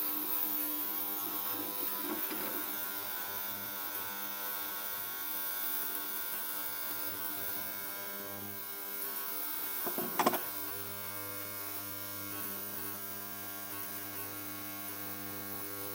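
Ultrasonic cleaner running with a part soaking in its bath: a steady electric buzzing hum. It is broken once, about ten seconds in, by a short sharp sound.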